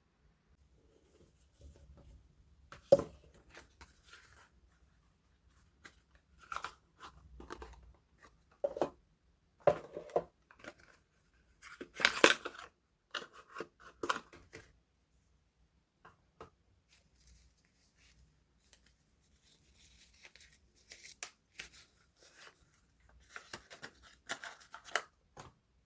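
Soap packaging being unwrapped and handled: irregular crinkles, rustles, tearing and light knocks come in bursts with short pauses between them, the loudest cluster about halfway through.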